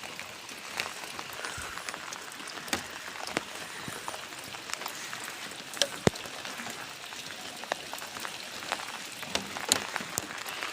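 Steady rain falling, an even hiss broken throughout by sharp drop hits, with rainwater running off a tree.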